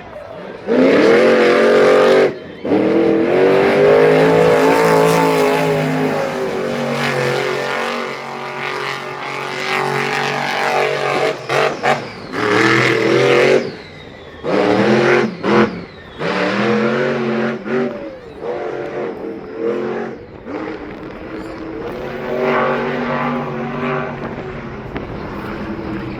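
Vehicle engines running hard, their pitch climbing and falling as they rev and ease off, in several stretches that cut off suddenly.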